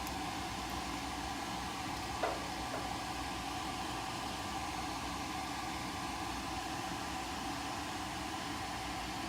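Steady mechanical hum of a running motor, with one short sharp click about two seconds in.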